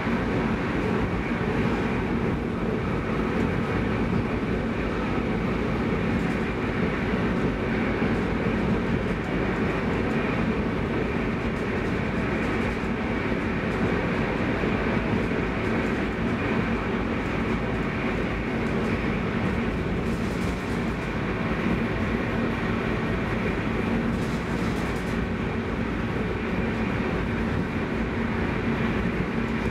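Steady running noise of a Stockholm commuter rail X10 electric multiple unit at speed, heard from inside the carriage: wheels on the rails and the car body, even and unbroken throughout.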